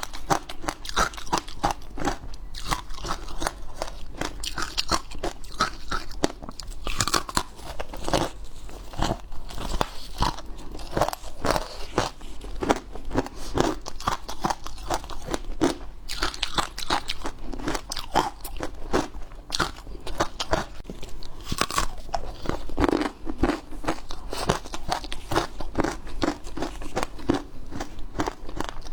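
A person biting and chewing hard ice close to the microphone: a continuous run of sharp, brittle crunches, several a second, with no pauses.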